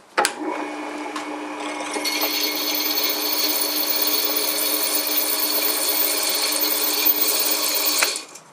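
Electric drill switched on with a click and running steadily. About two seconds in, a higher cutting noise joins as the freshly sharpened twist drill bites into the work. The drill stops abruptly near the end.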